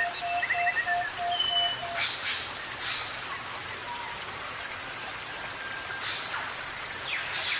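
Steady rain hiss with bird calls over it. The calls are a run of short, evenly spaced notes, about three a second, that stops about two seconds in, then short high whistles and a quick falling series of chirps.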